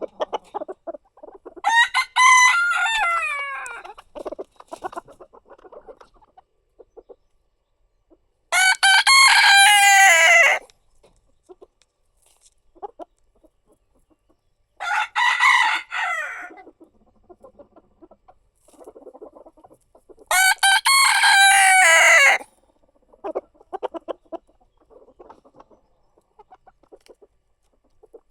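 Rooster crowing four times, about every six seconds, each crow lasting about two seconds, with soft clucking between the crows.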